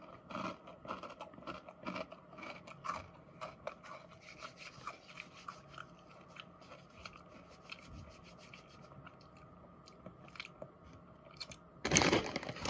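A person chewing a mouthful of popped potato crisps with the mouth closed: a run of small, irregular crunches. Near the end a louder burst of rustling noise comes in.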